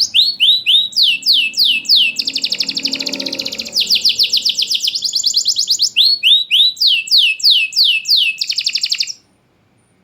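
Domestic canary singing a continuous song of repeated phrases: groups of high, downward-sweeping whistles alternating with fast trills, stopping abruptly about nine seconds in.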